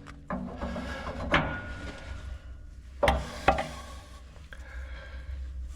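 Four irregular sharp knocks and clunks of tools or parts against the steel of a traction engine boiler during tube-removal work, two close together near the middle, over a low steady hum.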